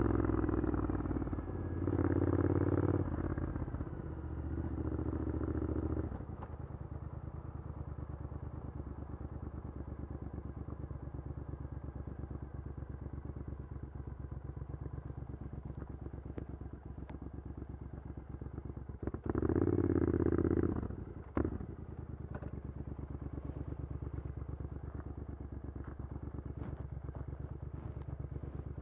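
Triumph Scrambler 900's parallel-twin engine through an Arrow exhaust: three short throttle pulls in the first six seconds, then a steady idle, with one more brief rev about two-thirds of the way through.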